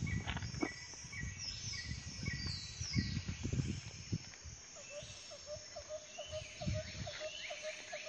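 Birds calling in open country: in the first half, a short high note repeats about three times a second alongside quick falling chirps, and from about halfway a lower short note repeats at the same pace. Low rumbles sit underneath.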